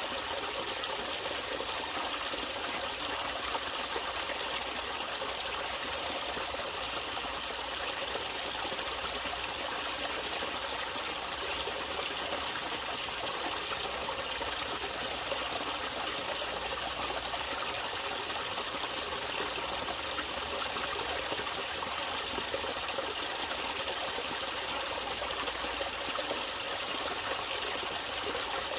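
Natural running water flowing and trickling steadily, like a stream over stones.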